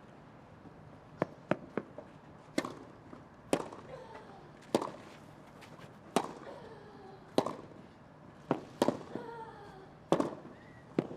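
Tennis rally on a grass court: tennis balls struck by racquets with sharp pops, roughly one shot every second and a bit, the exchange running through the whole point.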